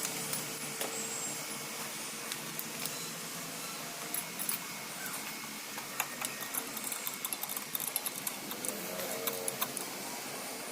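Irregular sharp metallic clicks and clinks, as of hand tools and parts being handled on an opened motorcycle engine, thickest in the second half, over a steady background hiss.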